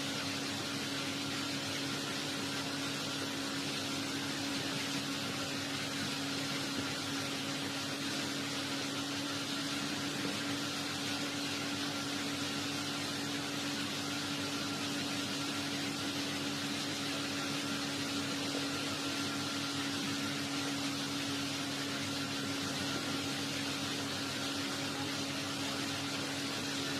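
Steady background hiss with a constant low hum, unchanging throughout; no speech or music.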